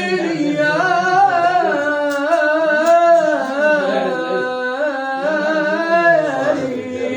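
A solo vocal line in Egyptian folk style, one voice holding and ornamenting long sliding notes without clear words.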